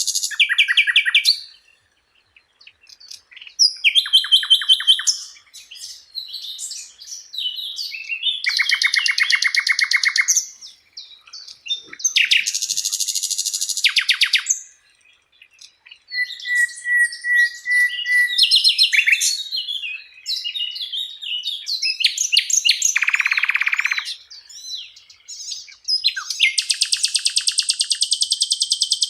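Sikatan londo flycatcher singing a varied song of fast trills, rattles and sharp high chirps, with a short run of whistled notes about two-thirds of the way through. The phrases last a second or two each, with brief pauses between them.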